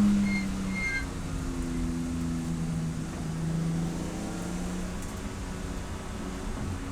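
Race car engine coming off the throttle in the first second, its note dropping, then running at lower, varying revs.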